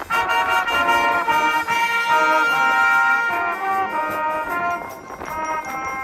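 School brass band playing outdoors, trumpets and trombones sounding full sustained chords that shift every half second or so, growing softer about five seconds in.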